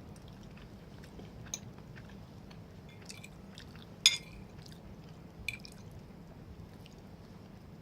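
Close-up eating sounds: chewing and soft wet mouth sounds of a creamy macaroni casserole, with a few short sharp clicks, the loudest about four seconds in.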